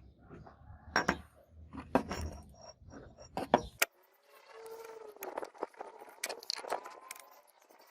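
Small metal pieces clinking and knocking as they are handled, in short separate clicks; the sound changes abruptly about four seconds in.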